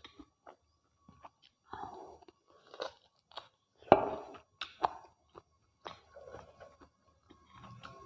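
Close-miked chewing and mouth sounds of someone eating mutton curry and rice: irregular wet clicks and short smacks, the loudest about four seconds in.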